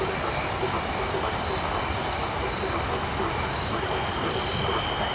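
Tropical night chorus of insects and frogs: crickets and other insects trilling steadily at a high pitch, with frogs calling in short notes repeated about three times a second.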